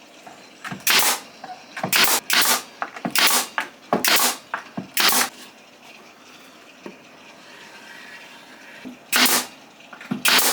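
Pneumatic nail gun firing nails into wooden roof boards, each shot a sharp bang with a hiss of air. There are about six shots roughly a second apart, a pause of a few seconds, then two more near the end.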